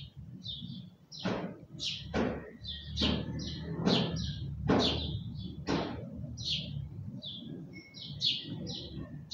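Small birds chirping: many short, high chirps following each other several times a second, with a few louder, sharp down-sweeping calls, over a low steady rumble.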